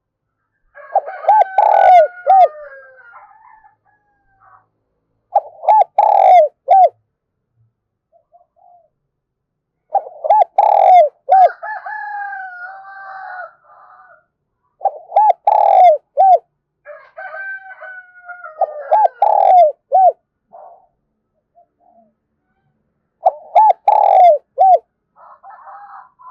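A decoy spotted dove cooing in the 'thổ pha thúc' style: six short phrases of three or four low coos, each a few seconds apart. This is the eager, insistent calling used to provoke wild doves and to train other decoys.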